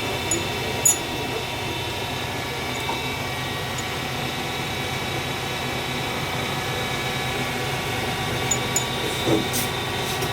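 A machine running steadily: a low hum under a steady high whine. A few short sharp clicks come about a second in and again near the end.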